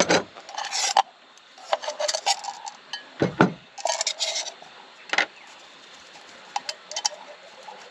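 Camping cookware and utensils being handled: scattered clinks and knocks, some ringing briefly.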